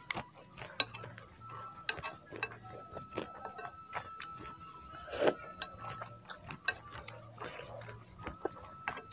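Close-miked eating sounds: irregular wet chewing clicks and a spoon knocking and scraping in a ceramic bowl of meatball soup, with one louder sound about five seconds in. A faint steady high tone runs underneath.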